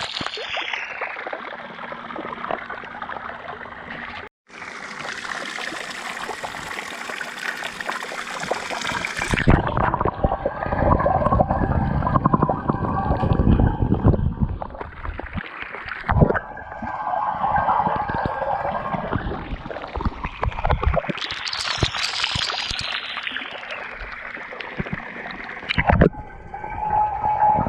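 Water from an Intex 28089 pool waterfall fountain splashing and trickling steadily. It drops out briefly about four seconds in, and its character changes abruptly several times.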